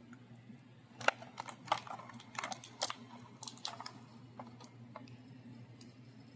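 Plastic and cardboard toy packaging being handled: a quick run of sharp clicks and crackles starting about a second in and thinning out after about four seconds, over a steady low hum.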